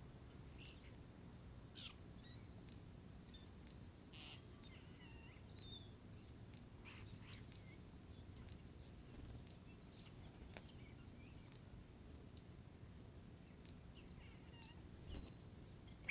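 Faint, scattered bird chirps and short whistled calls over a low steady background hiss of the open air.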